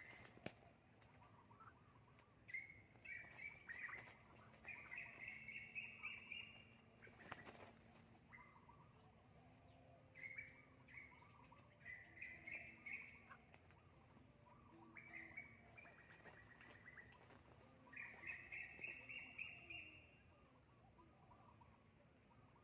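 A bird calling faintly in several bouts of rapid, high, rising trills.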